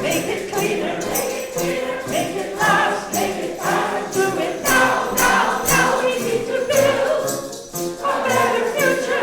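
Choir and congregation singing an upbeat song, with hand percussion keeping a steady beat.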